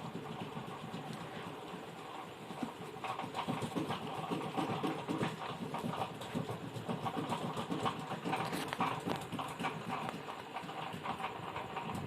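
Rapid, irregular light tapping and clicking of hand tools working on a TV's circuit board.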